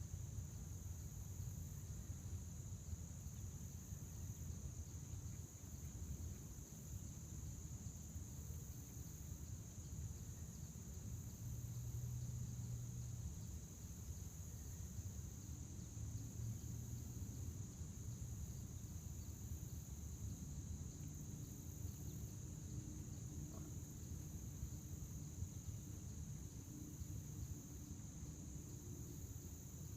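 Crickets chirping in a steady high-pitched chorus, with a low rumble underneath.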